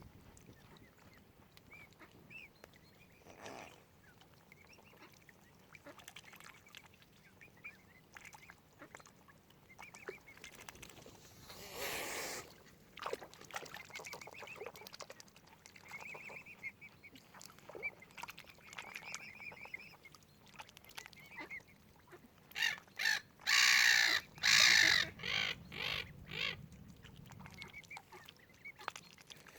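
Waterfowl calling in short, repeated calls. A loud burst of rushing noise comes about twelve seconds in, and a louder cluster of bursts a little after twenty seconds.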